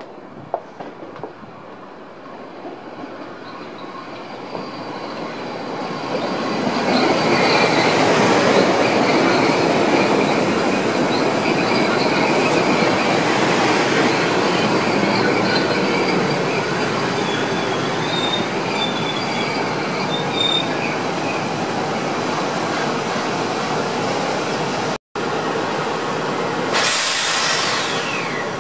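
Metro-North M3A electric multiple-unit train coming into the station and passing close by, growing loud about seven seconds in, its wheels squealing thinly as it brakes. A short hiss falling in pitch comes near the end.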